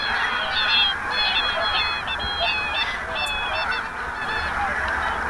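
A large flock of geese honking, many birds calling at once in a dense, continuous chorus, with sharper, higher calls standing out during the first four seconds.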